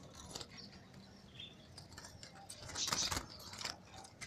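Small caged birds moving and calling: scattered short chirps and scratchy rustling, with a louder rustling burst, like wings or a cage being jostled, about three seconds in.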